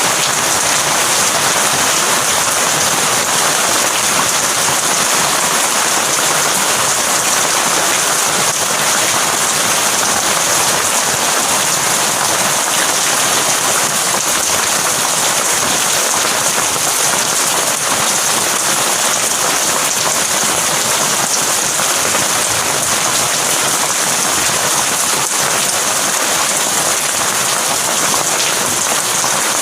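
Heavy rain falling steadily, a dense even hiss of drops on surfaces with no thunder heard.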